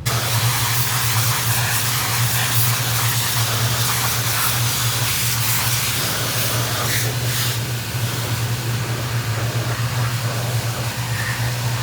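Steady machine noise: a low, even hum with a loud hiss over it.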